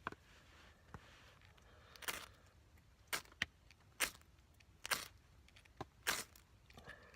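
Ferrocerium rod (firesteel) struck repeatedly against a striker, short sharp scrapes about once a second, some in quick pairs, throwing sparks to light fine tinder.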